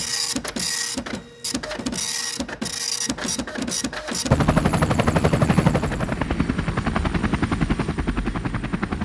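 A run of short mechanical clattering bursts. About four seconds in, a helicopter's rotor beat takes over: a fast, even chop over a deep rumble.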